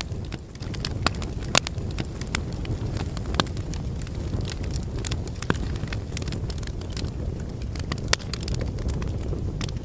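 Burning logs in a fireplace: a steady low rumble of the flames with irregular sharp crackles and pops, a few louder snaps among them.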